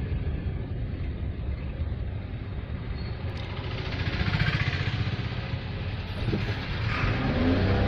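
Car driving: a steady low rumble of engine and road noise that swells about four seconds in and again near the end.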